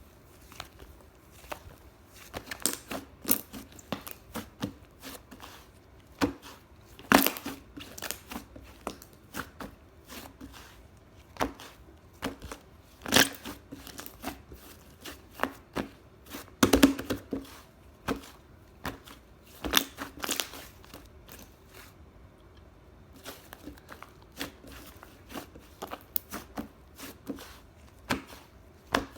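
Puffy white slime being squeezed, stretched and pressed by hand, its trapped air bursting in irregular clicks and pops, a few much louder than the rest.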